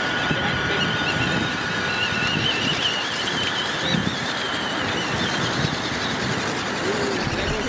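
Small electric motor and gearbox of a toy-grade 1/16-scale RC truck whining as it drives, the whine wavering in pitch with the throttle, over a steady rustling noise.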